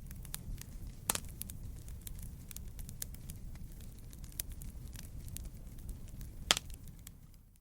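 Wood fire crackling in a fireplace: a steady low rumble of burning with frequent small pops and snaps, two of them much sharper, about a second in and near the end.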